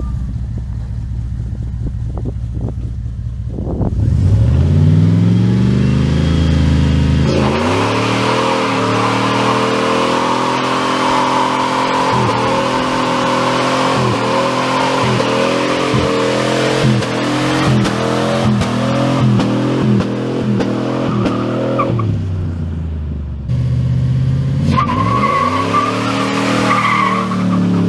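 Dodge pickup's 5.2 Magnum V8 running low, then revving hard about four seconds in and held high for a long burnout, the rear tires spinning and squealing while the revs waver. The revs drop off and climb again near the end. The rear end does not wheel hop, which shows the newly fitted traction bars are working.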